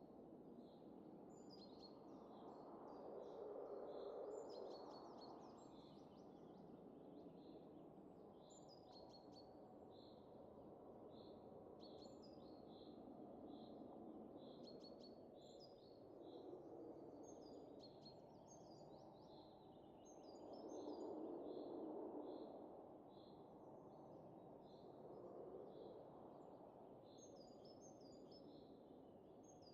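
Faint, soft wind that swells in two gentle gusts, about three to five seconds in and again around twenty seconds in, under small birds chirping steadily with short, high, repeated notes.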